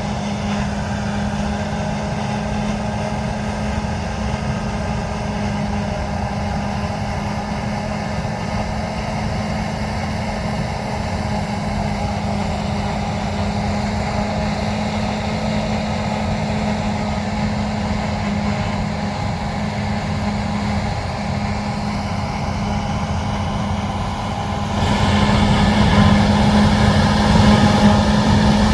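Heavy diesel harvest machinery running steadily, a constant engine drone with a strong even hum. Near the end it steps up suddenly and gets louder.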